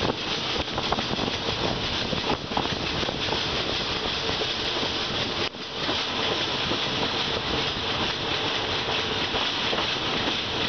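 Steady running noise of a moving passenger train heard from a carriage window: wheels on the rails and air rushing past, with a brief dip in loudness about halfway through.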